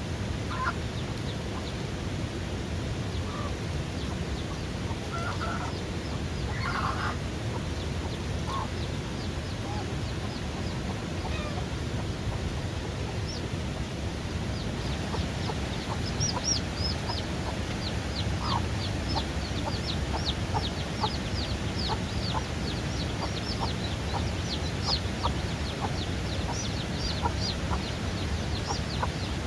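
Chickens clucking, then from about halfway a rapid run of short, high, falling peeps from newly hatched chicks, over a steady low rumble.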